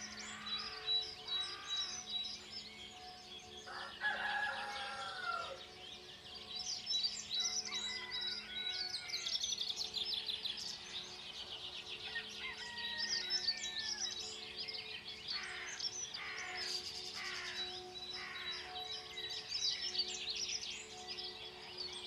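Dawn chorus of many songbirds chirping, whistling and trilling over one another, with rapid trills around the middle and toward the end. Underneath is a faint steady drone of a few low held tones.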